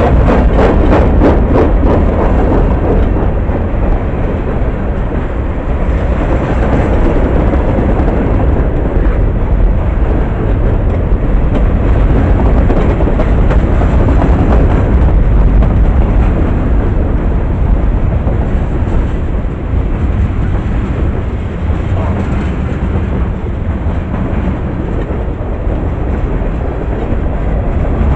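Freight train rolling past close by: a steady, loud rumble of wheels on rail, with a quick run of clicks in the first couple of seconds.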